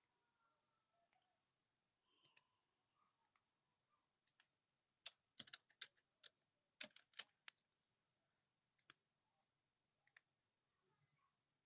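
Near silence with scattered faint clicks from a computer mouse and keyboard, most of them in a quick cluster near the middle.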